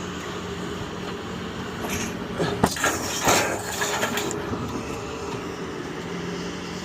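Truck engine idling steadily, with two sharp knocks and a rushing scrape about halfway through as a scrapped Rheem water heater is handled.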